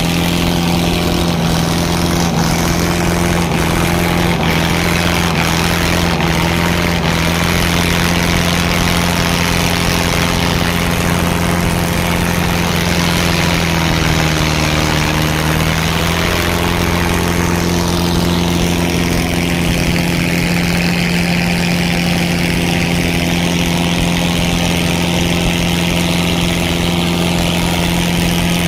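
Tractor diesel engines running steadily at high revs. The pitch sags slightly about halfway through, then picks back up.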